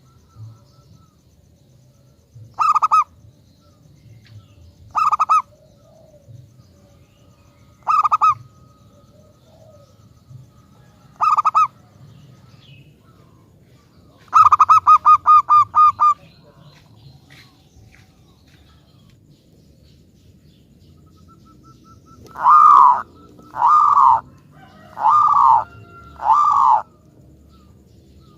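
Zebra dove (perkutut) cooing: short single coos every two to three seconds, then a quick run of about eight staccato notes, and near the end four longer coos with an arching pitch.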